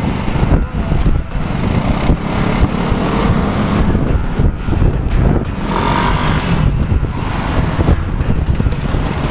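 Road traffic with scooters on a windswept bridge, a continuous engine and tyre noise under a rumbling wind on the microphone, with a brief tone about six seconds in.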